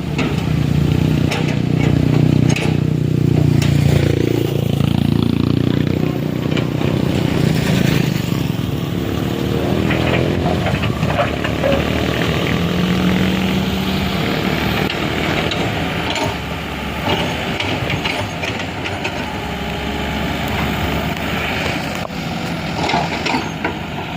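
A heavy vehicle's engine runs steadily throughout. About four seconds in, its pitch dips and then rises again.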